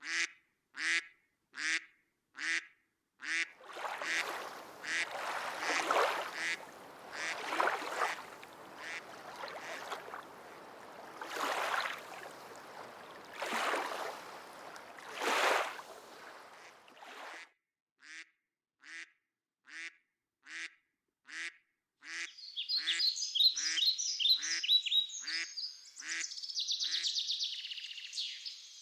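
Mother duck quacking in a steady series, about one quack a second. A rushing noise swells over the middle stretch. Later, rapid high-pitched peeping, as of ducklings, comes in on top of the quacks.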